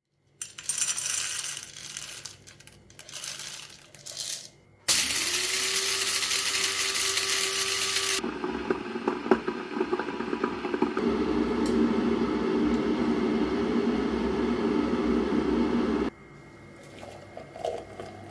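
Honda CBF 600 inline-four motorcycle engine started up: a sudden loud start with a whine that rises and holds for about three seconds, settling into a steady running rumble that cuts off abruptly near the end. Rattling and handling noises come first.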